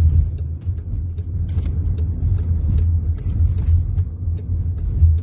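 Sandstorm wind: a loud, steady low rumble with scattered faint ticks throughout.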